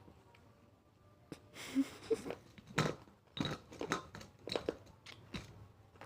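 Close-up eating sounds: irregular wet chewing and mouth smacks, starting about a second in.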